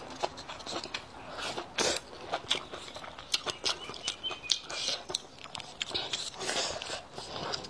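Close-miked mukbang eating: a person chewing and biting food, with many short wet mouth clicks and smacks.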